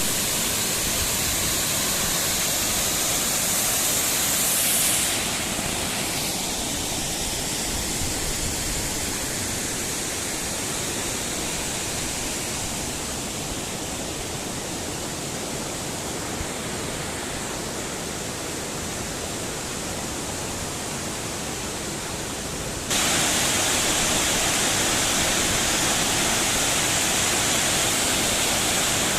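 Water of a small stream cascading over a series of small waterfalls, a steady rushing. It eases slightly about five seconds in and turns suddenly louder and hissier about 23 seconds in.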